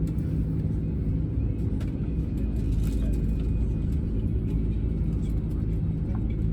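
Steady low rumble inside an Airbus A320neo's passenger cabin during pushback, with a few faint clicks.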